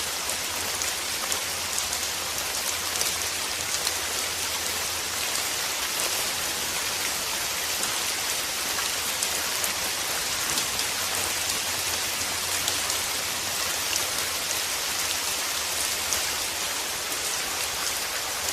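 Steady rain falling on a surface: an even hiss scattered with many small drop taps, played as a continuous white-noise track.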